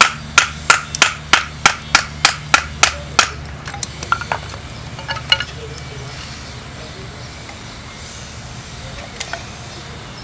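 Steel striker hitting a flint: a quick run of about eleven sharp, ringing clicks at roughly three a second, then a few softer ticks that stop about five seconds in.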